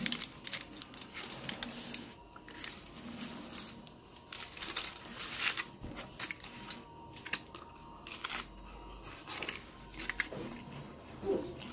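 Chewing a bitten hard-shell corn taco: irregular crunching, close to the microphone.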